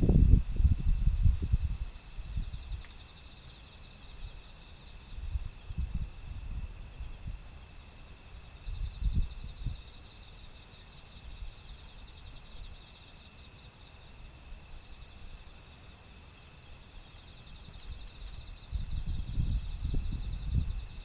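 Insects trilling faintly in pulsed stretches, over irregular low rumbling thumps that come and go, loudest at the start and again near the end.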